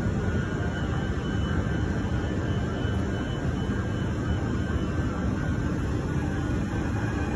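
Trenord TSR double-deck electric train moving slowly along the platform: a steady rumble with faint steady high whines.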